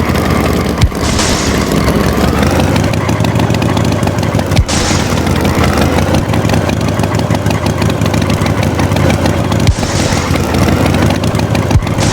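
Tractor engine running steadily, with a few sharp clicks and short hissing swells on top.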